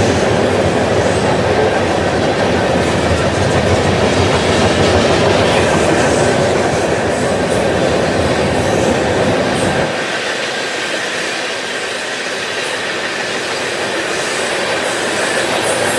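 Freight oil train of tank cars rolling past, its steel wheels running over the rails in a loud, steady din. The deep rumble drops away about ten seconds in, while the wheel-and-rail noise carries on.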